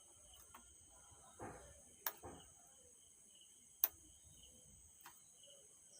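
Small hand-tool clicks as resistor leads are fitted into an amplifier circuit board: a soft rustle, then two sharp clicks about two seconds in and just before four seconds in. Faint steady high-pitched tones sit underneath.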